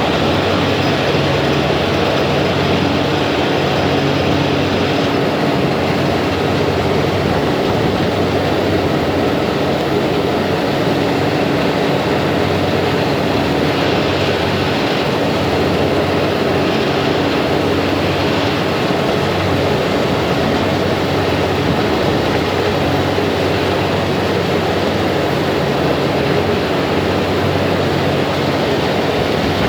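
Thames Clipper catamaran's engines running steadily under way: a constant drone with a low hum and an even rush of noise.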